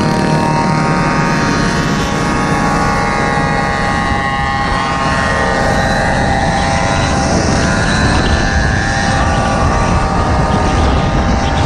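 Small engines of Gopeds and mini bikes running steadily together, several high-pitched engine tones held and shifting slightly in pitch over a low rumble.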